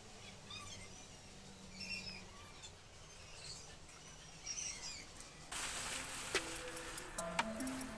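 Faint bird chirps over a quiet background, then music with plucked notes and a ticking beat starts about two-thirds of the way in.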